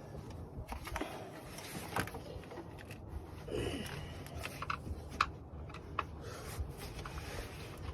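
A flathead screwdriver prying at the radiator fan shroud's plastic clips, with scattered sharp clicks and knocks and some scraping.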